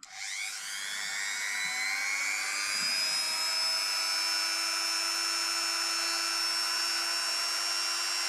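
Variable-speed rotary multi-tool switched on, its whine rising in pitch as it spins up over the first few seconds, then running steadily at a low speed setting while polishing diamond paste into a scratched camera lens.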